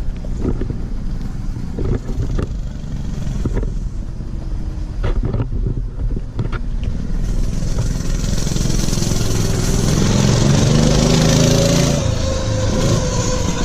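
Mega Moto 212cc minibike's single-cylinder engine ridden hard toward and past the listener, with several sharp backfire pops in the first half. The engine grows louder, is loudest a few seconds before the end, and its pitch eases down as it goes by.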